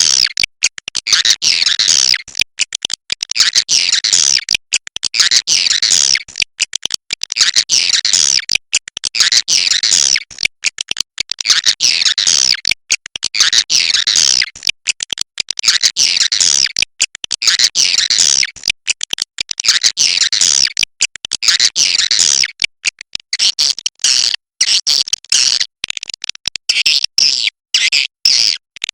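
Swiftlets calling: high, chittering twitters in falling sweeps, repeated in bursts about every two seconds.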